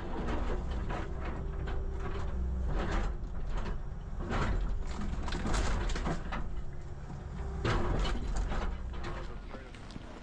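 Cat 312CL excavator engine running steadily under load, with several scrapes and clunks of concrete and block rubble being broken and moved.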